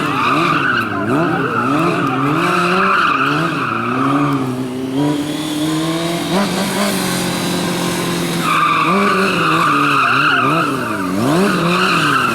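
Motorcycle engine revved hard and let off in quick swings while the rear tyre squeals in long drifts. There are two long squeals, with a break of about four seconds in the middle where only the engine is heard.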